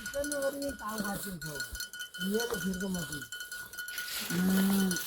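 Sheep bleating about four times, the last call the longest and loudest near the end, over the steady ringing of a livestock bell.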